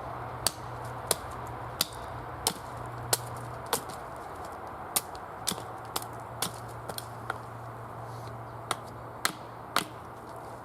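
A series of sharp, short knocks, roughly one or two a second at an uneven pace, over a steady background hiss.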